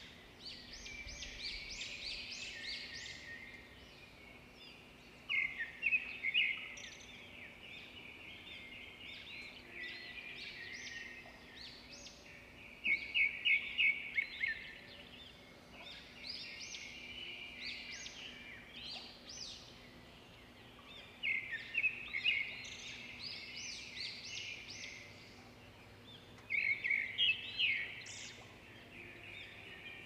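Small birds chirping: quick runs of high chirps that come back every several seconds, with softer twittering between them.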